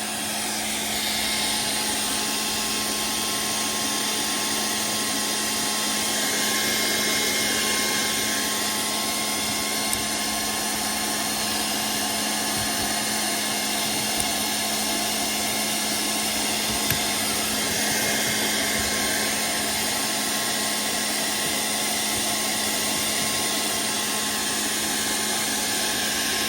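TOAUTO portable PCP air compressor running steadily, its motor and cooling fan making a constant mechanical drone with a steady hum; it gets slightly louder about a second in. A few faint clicks sound over it.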